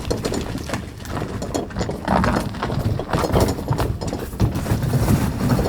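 A run of irregular clattering knocks and rattles over a low rumble.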